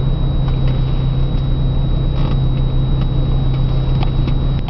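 Ford Mustang idling while stopped, heard from inside the cabin as a steady low drone, with a few faint clicks.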